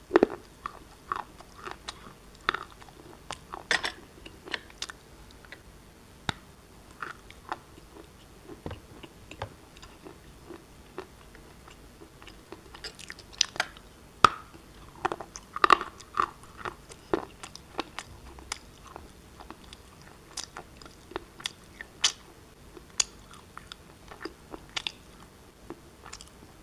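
Pieces of black shale being bitten and chewed close to the microphone: irregular sharp crunches and crackles, with a few much louder snaps among them.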